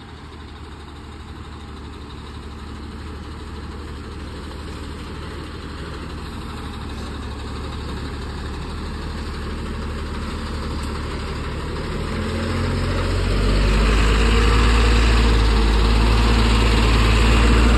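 Loaded coal truck's diesel engine running steadily and slowly growing louder, then stepping up to a louder, fuller note about three-quarters of the way through as it pulls harder.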